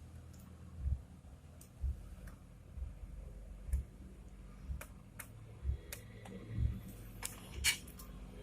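Scattered sharp clicks and ticks from wiring and plug connectors being handled and fitted to a 3D printer's main board, over soft low thumps that come about once a second.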